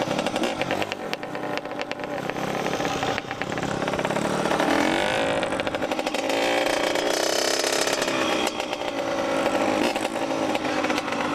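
Dirt bike engine revving, its pitch rising and falling several times.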